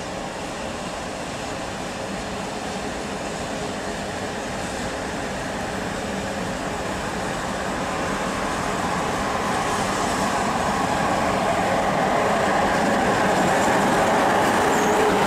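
HŽ Cargo electric locomotive hauling a train of hopper wagons, approaching and passing close: running noise of the locomotive and wheels on the rails growing steadily louder, with a steady low hum.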